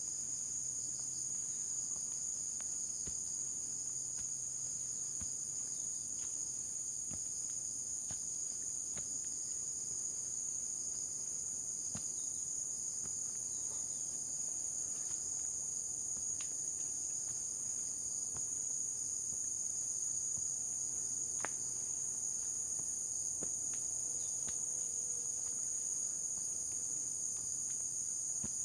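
Steady, high-pitched chorus of insects stridulating in the forest, an unbroken shrill trill that holds without pause.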